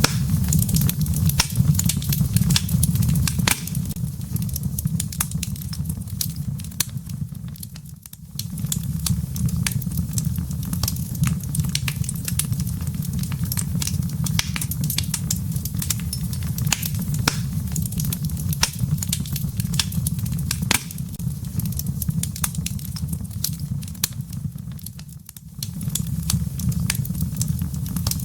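Wood fire burning in a fireplace, crackling with many quick pops and snaps over a steady low rumble of the flames. The sound dips briefly twice, once about a quarter of the way in and again near the end.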